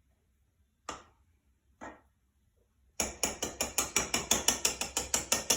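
Two separate knocks, then about three seconds in a quick, even run of mechanical clicks, about five a second, like a ratchet.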